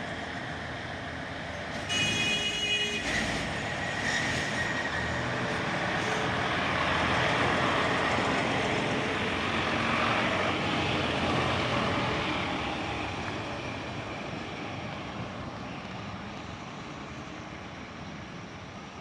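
Passenger train running along the track, heard from an open carriage window: a steady rushing rumble of wheels and air that swells in the middle and eases off toward the end. About two seconds in, a brief sound of several steady high tones lasts about a second.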